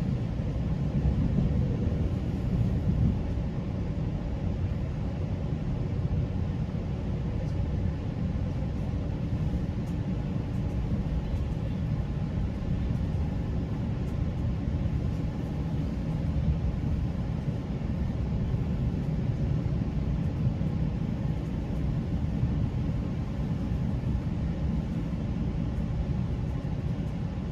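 GO Transit commuter train in motion, heard from inside the passenger coach: a steady low rumble of wheels and running gear on the track.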